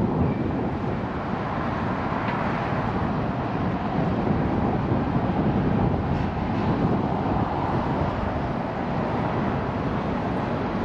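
Freight train of covered hopper cars rolling steadily past below: a continuous rumble of steel wheels on rail, with a few faint clicks.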